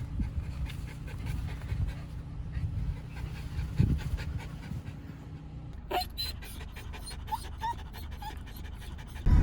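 Pet dog panting, with a run of short clicks in the second half.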